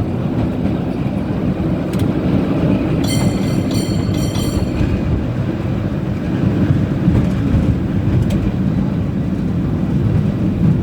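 San Francisco cable car running along its track with a steady rumble and rattle. About three seconds in, a brief high-pitched squeal sounds in three short pulses.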